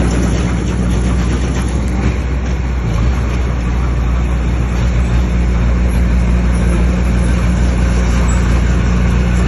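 Bulldozer's heavy diesel engine running steadily, its low engine note shifting briefly about three seconds in.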